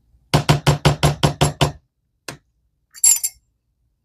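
About eight quick knocks in a row, five or six a second, as a kitchen utensil is rapped against the mixing bowl to shake the last of the mayonnaise out. A single tick and a short scrape follow near the end.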